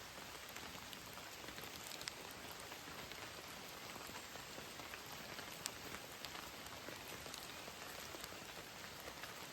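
Steady heavy rain falling, an even hiss dotted with sharper individual drop hits, a louder one about two seconds in and another past the middle.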